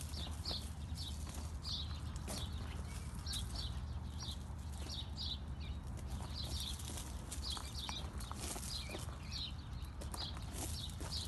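Small birds chirping: short high chirps, often in quick pairs, a few every second, over a steady low hum with occasional faint clicks.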